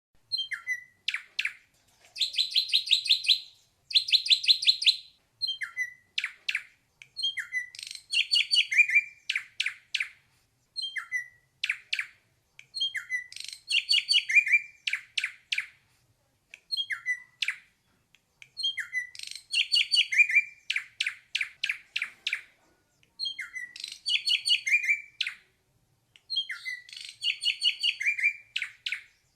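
Ashy drongo singing: short phrases of rapid, ringing notes, each about a second long, repeated over and over with brief pauses between them.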